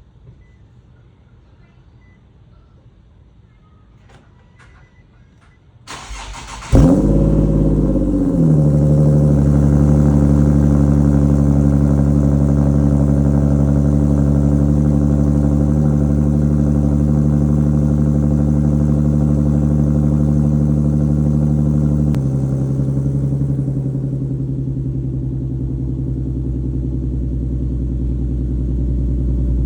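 Nissan 370Z's 3.7-litre V6 cranked over and catching about six seconds in, flaring briefly, then settling into a steady idle. About 22 seconds in, the idle steps down lower and runs on. A few faint clicks come before the start.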